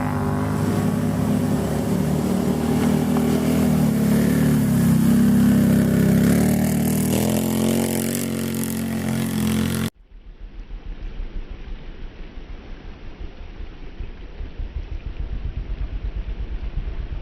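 Racing engines running and revving, several pitches at once. About ten seconds in, the sound cuts off abruptly to a quieter, low, rapidly pulsing engine sound.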